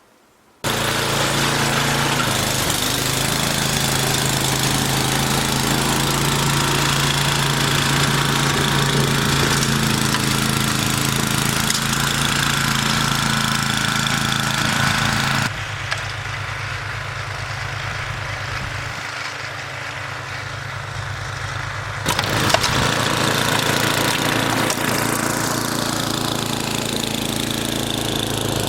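Gasoline snowblower engine running steadily while clearing snow, its sound dropping quieter and duller for several seconds past the middle, then coming back up.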